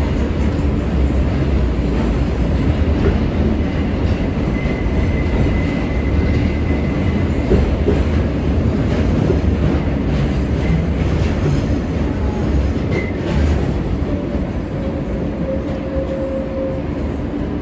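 R143 subway car running along the track: a steady rumble of wheels on rail and traction motors. A thin wheel squeal comes in a few seconds in and a lower one near the end.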